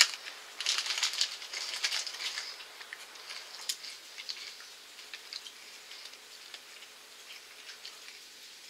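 Crunching of mini chocolate-topped rice cakes being bitten and chewed: crisp crackling, dense at first, then thinning out and fading over the next few seconds.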